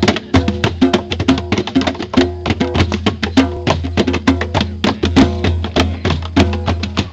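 A live band playing loud, fast music, with rapid percussion strikes several times a second over sustained pitched notes.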